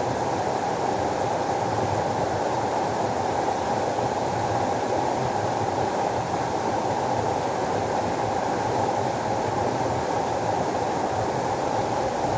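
Water rushing steadily, an even, unbroken noise.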